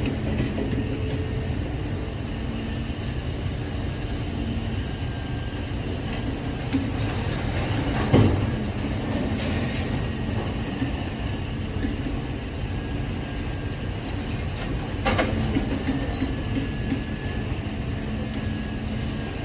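Idromec T650 CLS scrap metal shear baler working: a steady hydraulic hum with metal grinding and scraping, broken by a loud metal clank about eight seconds in and another about fifteen seconds in.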